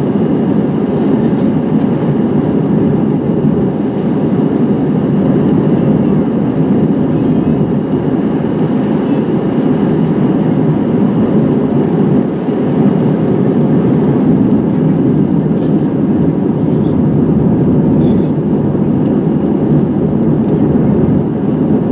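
Steady cabin noise inside an Airbus A320-211 in flight: its CFM56 engines and the rushing air, heard as an even, low-pitched drone from a window seat.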